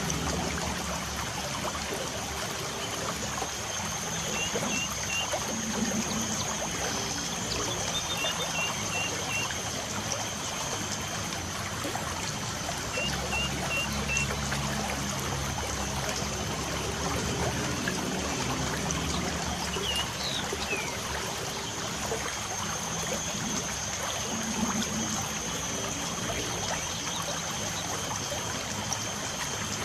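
Light rain falling steadily with birds chirping over it. There are a few short runs of three or four quick high chirps, and one falling whistle about twenty seconds in.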